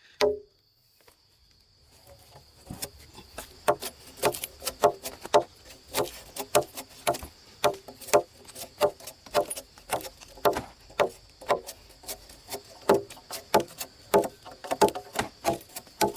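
Irregular sharp knocks, about two or three a second, starting about two seconds in after a brief pause, over a steady high-pitched whine.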